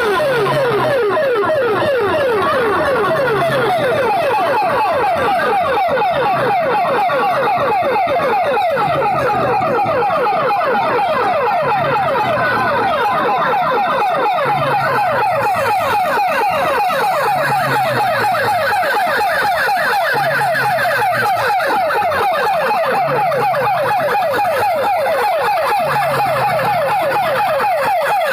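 Competition DJ track played loud through a sound-box speaker rig: a siren-like effect of rising sweeps repeating many times a second, over a low bass pulse about every second and a half.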